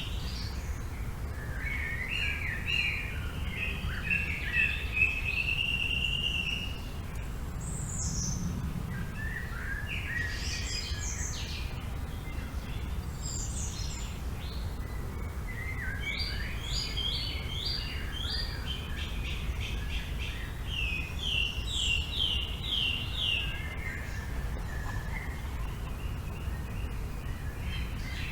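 Several songbirds calling and singing in a forest, in scattered phrases that include runs of quick repeated chirps. A steady low wind rumble runs underneath.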